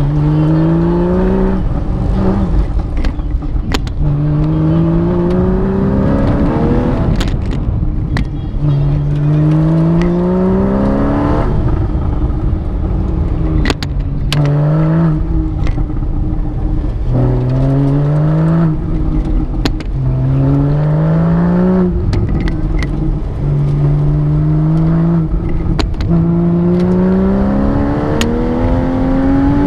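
Porsche 911's flat-six engine heard from inside the cabin, revving up and dropping back over and over as the car accelerates hard between turns and lifts for the next. Each climb in pitch lasts a second or two, about a dozen in all, with a few short sharp clicks between.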